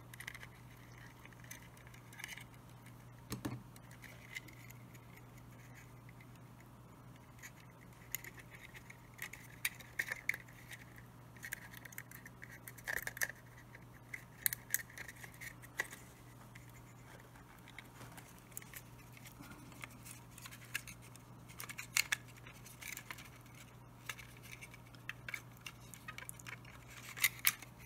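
Small scattered clicks and light scrapes of a plastic HO scale model locomotive shell and chassis being handled and pressed together, with metal tweezers prodding a wire into place, over a faint low hum.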